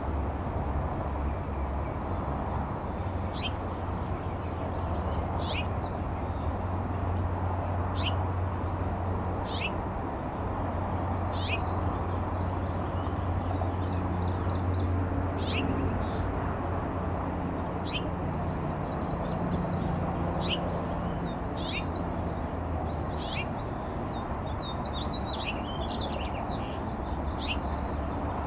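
Tits calling: short, sharp, high chirps repeated every second or two, over a steady low hum and background noise.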